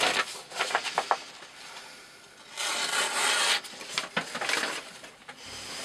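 Knife blade cutting through thick rope: a few short scrapes, then a longer rasping stroke about two and a half seconds in.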